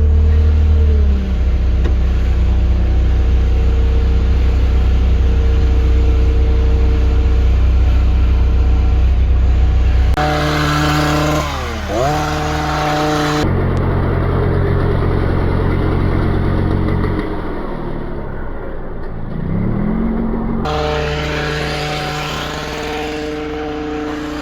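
Engines running steadily: the low hum of the JCB together with the higher tones of petrol hedge cutters. The higher tone dips and climbs back twice as the cutters are throttled. The sound changes abruptly several times where clips are cut together.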